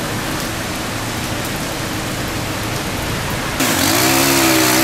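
Steady hiss of heavy rain falling on a street. About three and a half seconds in, the sound cuts to a louder hiss with a steady low humming drone underneath.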